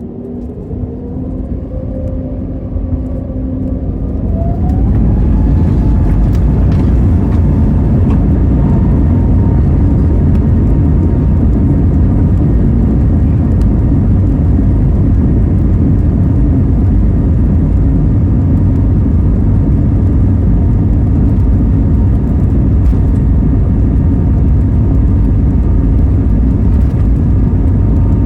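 Airbus A320neo's CFM LEAP-1A turbofan engines heard from the cabin, spooling up with a rising whine over the first few seconds, then holding takeoff thrust as a loud, steady roar with a deep rumble.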